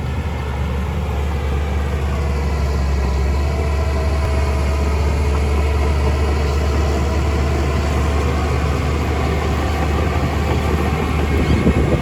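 Heavy construction machine's engine running steadily with a deep hum, growing louder and rougher near the end.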